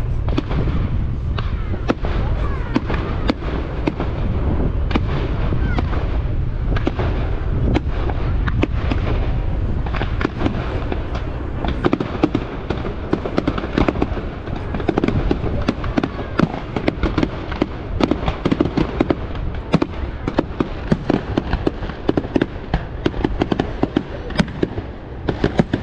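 Fireworks display: a continuous run of bangs and crackles from aerial shells bursting overhead. The reports come thicker and faster from about halfway through, into dense rapid crackling.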